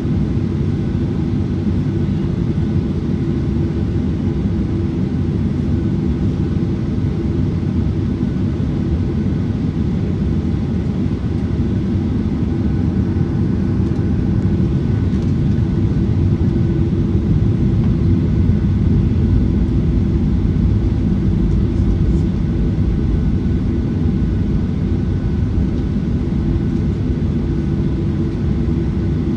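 Steady roar and rumble of a Boeing 737-900ER's CFM56-7B jet engines heard inside the passenger cabin, with faint steady tones above it, swelling slightly around the middle.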